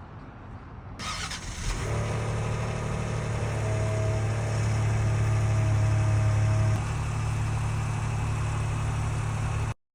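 Ford vehicle's engine cold-starting: the starter cranks briefly about a second in, then the engine catches and runs at a steady high idle. The idle steps down slightly about seven seconds in, and the sound cuts off suddenly near the end.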